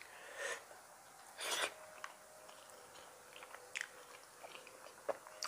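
Close-miked chewing of a mouthful of masala rice, with two short breaths in the first two seconds and small wet mouth clicks after.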